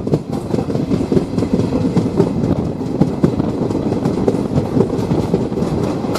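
Passenger train running along the track, heard from on board: a steady rumble with wheels clattering over the rails in many short clicks.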